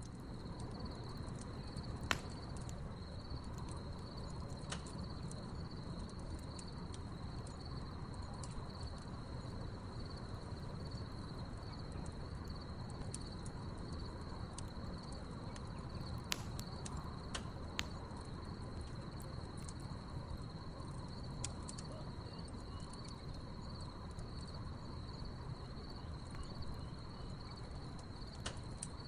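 Crickets chirping in a steady high trill over the low steady sound of a wood campfire, with scattered sharp pops and crackles from the burning logs. The loudest pop comes about two seconds in, with a few more about halfway through.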